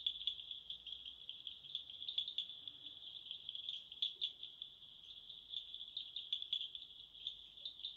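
Night chorus of calling animals: a continuous high-pitched trill with irregular louder pulses throughout.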